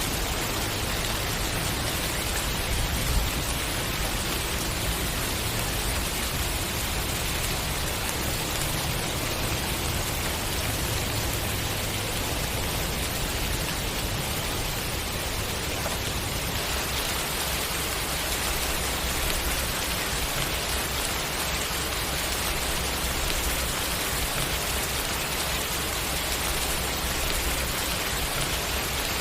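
Steady, even rain falling on surfaces, an unbroken hiss of drops without a break or change in loudness.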